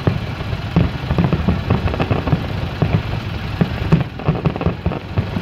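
Fireworks bursting, a dense run of irregular pops and crackles over a steady low rumble.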